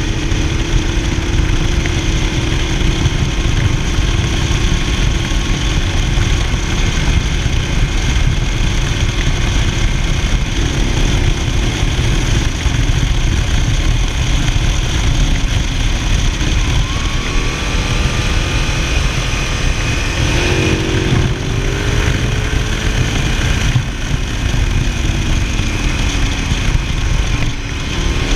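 Ducati Multistrada 1000DS's air-cooled L-twin engine riding under way, its pitch rising and falling with the revs in the second half. Heavy wind noise on the microphone is the loudest sound throughout.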